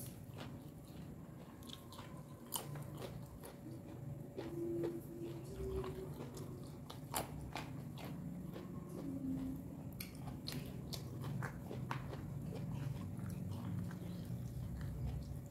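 A person chewing food, with sharp crunches now and then over steady wet chewing.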